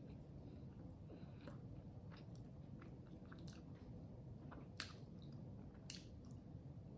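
A person quietly chewing food, with faint mouth clicks and two sharper clicks about five and six seconds in.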